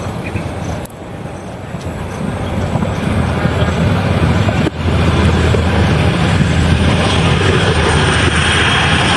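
Airliner engines passing close by: a steady noise with a deep low hum that grows louder over the first few seconds, breaks off briefly about halfway through, then carries on louder.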